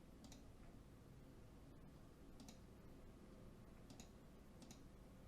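Near silence: room tone with about six faint, sharp clicks at irregular intervals.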